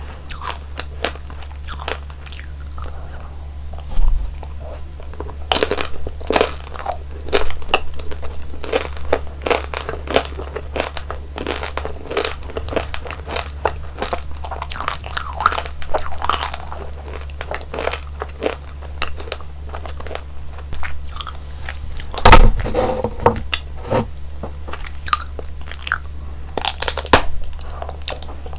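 Close-miked eating of frozen roll-up jelly and ice cream: crisp crunching bites and chewing. Sharp loud bites come about four seconds in and again past twenty seconds. A steady low hum sits underneath.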